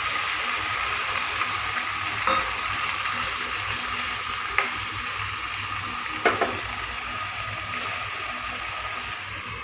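Chicken sizzling in hot oil in a pan, the sizzle easing slowly, with a few light knocks of a spoon against the pan.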